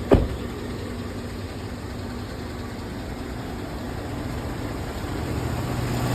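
A 2012 Chevy Silverado's 5.3-litre Vortec V8 idling steadily, running smooth with its cylinder 4 misfire cured by a new camshaft and hydraulic lifters. A single sharp knock comes just at the start, and a steady low hum grows slightly louder near the end.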